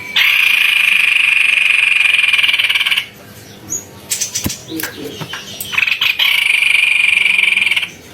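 White-necked babbler calls: two long, even, rapid trills of about three seconds each, a few seconds apart, with short chirps between them.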